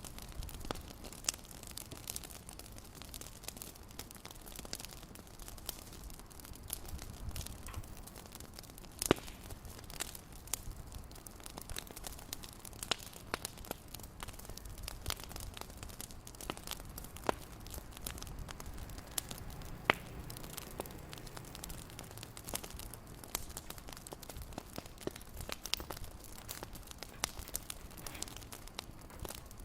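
Wood fire in a fireplace crackling: many irregular sharp pops and snaps, a few of them louder, over a low steady rumble.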